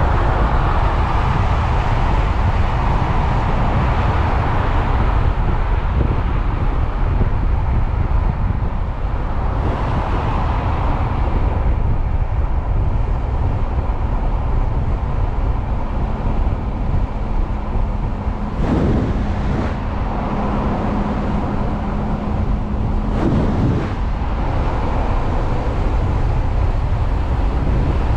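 Wind buffeting the microphone and road noise while riding an electric motorcycle, with a faint steady whine. A low hum comes in past the middle, and a few short knocks sound near the end of it.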